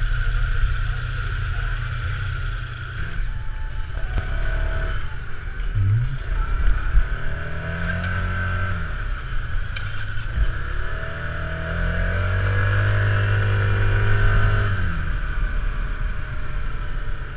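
Motorcycle engine running, its note rising several times as the bike pulls away and accelerates.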